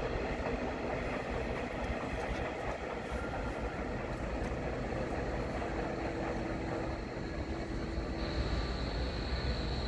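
Red double-deck regional train running away over points and curved track: a steady rumble of wheels on rails. A thin, high, steady tone comes in about eight seconds in.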